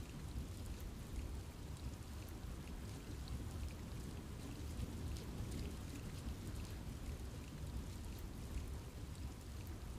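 Rain falling steadily in a forest, with scattered drops ticking on leaves over an even rushing patter.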